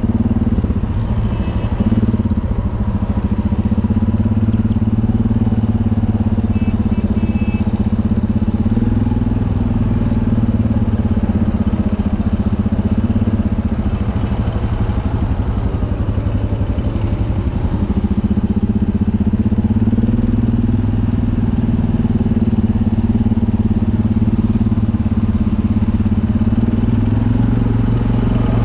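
U650 tractor's diesel engine running steadily at an even speed, likely pulling the seed drill while sowing maize.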